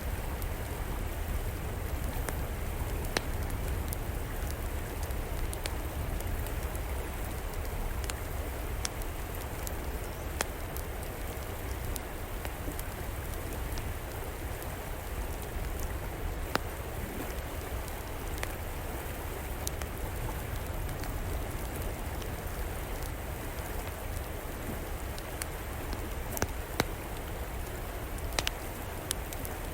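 Steady rush of a flowing river, with a wood fire crackling over it in scattered single sharp pops.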